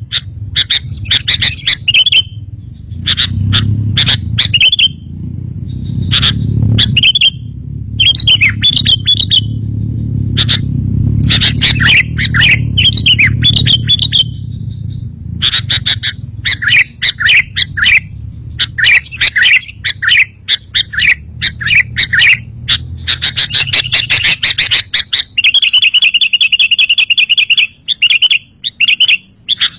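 Sooty-headed bulbul (kutilang) song: loud, quick chirping phrases repeated almost without pause, with a fast rattling trill near the end. A low rumble runs underneath for most of the time.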